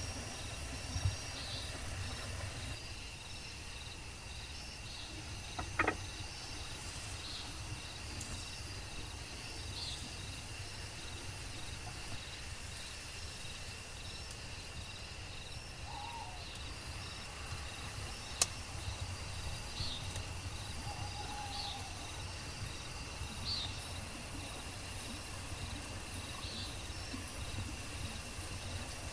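Rainforest insect chorus: a steady high-pitched drone with short chirps repeating about every second and a half, over a low rumble. Three sharp clicks stand out, about a second in, near six seconds and near eighteen seconds.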